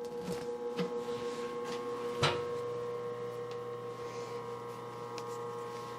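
Electrical hum and whine from an old Brown & Sharpe #1 cylindrical grinder's motor and control circuit, with a few small clicks, then a sharp click about two seconds in, after which a lower hum joins the steady whine.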